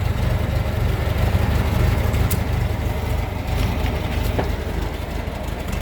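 1927 Ford Model T's rebuilt four-cylinder flathead engine idling steadily, freshly rebuilt and running smoothly, with a couple of sharp clicks over it.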